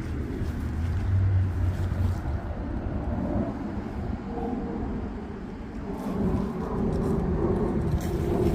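A train running past, a steady low rumble that grows fuller and louder from about six seconds in.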